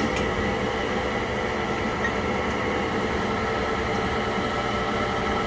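Kitchen appliance running with a steady whirring hum and no change.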